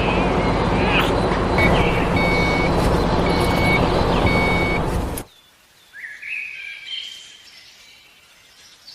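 Mini tractor running with a steady hum, with short high electronic beeps repeated every second or so, like a reversing alarm. The sound cuts off abruptly about five seconds in, leaving a quiet stretch with a few faint chirps.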